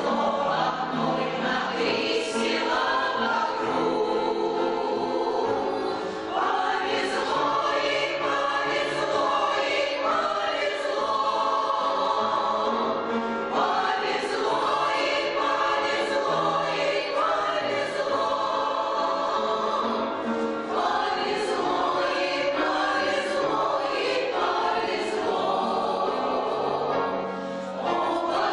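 A mixed amateur choir of older singers performing a song in unison and harmony, with accompaniment, sung in phrases with short breaths between them.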